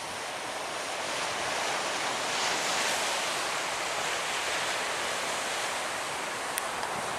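Surf breaking on the beach: a steady hiss of waves that swells a little about three seconds in.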